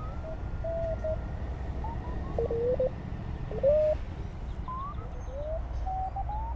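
Receiver audio of a Penntek TR-35 transceiver tuned across a busy 20-meter band: Morse code signals heard as short beeping tones at many different pitches, some sliding up or down as the tuning moves past them, over steady band noise.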